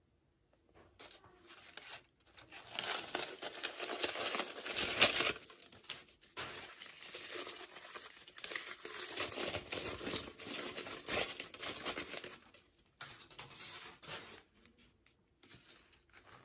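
Packaging crinkling and tearing as a toy package is opened by hand, in spells of several seconds with short pauses between, then a few small handling sounds near the end.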